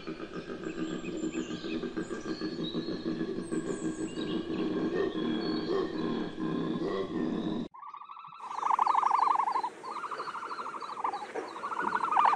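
Koala bellowing: a low, rapidly pulsing, snore-like grunting that keeps going for most of the clip, with faint bird chirps above it. It stops abruptly at a cut, and a different animal follows with a series of louder, higher-pitched pulsed calls.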